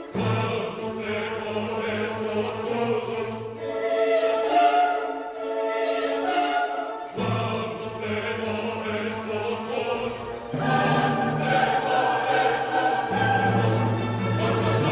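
Choral music with orchestral accompaniment: voices holding long, slow notes over sustained low bass tones.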